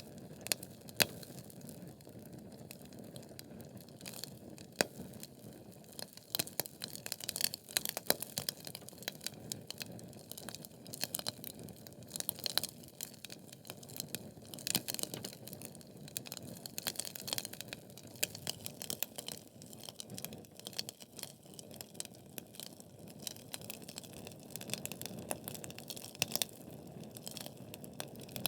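Wood fire of burning logs crackling in a fireplace: a soft steady hiss with many sharp, irregular pops and snaps.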